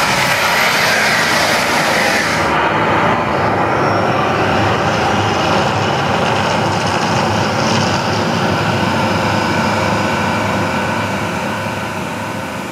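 Loud, steady rumbling roar of the Mirage volcano show's eruption effects. A hissing upper layer drops away about two and a half seconds in, and the rumble eases off near the end.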